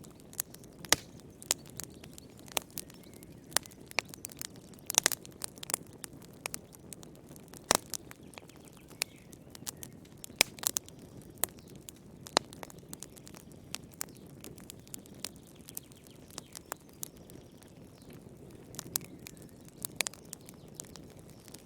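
Wood fire in a fireplace crackling, with irregular sharp pops and snaps over a low steady hiss of the flames; a cluster of louder pops about five seconds in.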